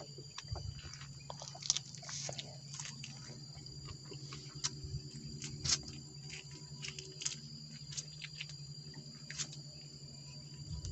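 A person chewing food close to the microphone, with irregular small clicks and crunches over a steady low hum.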